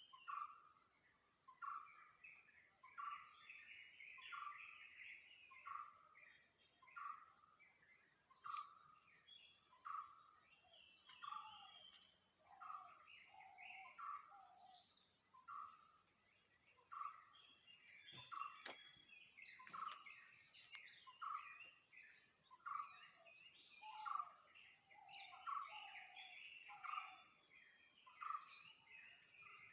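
Faint birdsong: one bird repeats a short call about once a second while other birds chirp, over a thin steady high-pitched tone.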